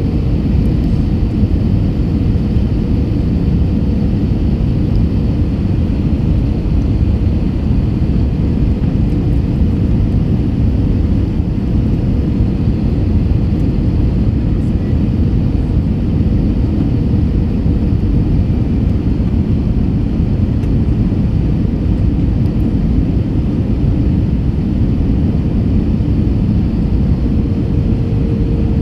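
Steady cabin noise of an Airbus A321 in flight: an even, low rumble of engines and airflow that does not change.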